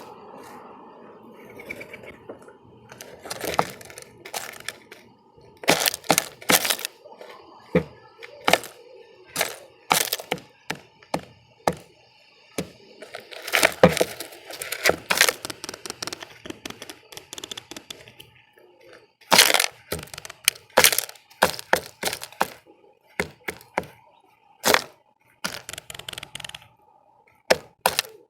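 Birds pecking and scrabbling at a feeder close to the microphone: irregular sharp taps and knocks, some in quick bursts of several.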